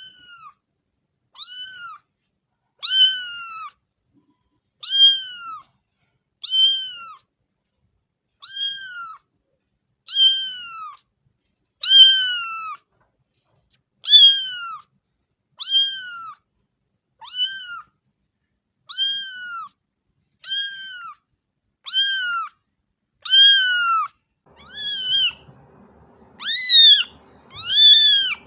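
A cat meowing over and over, a short high-pitched meow about every second and a half, each rising then falling in pitch. The last few meows are louder.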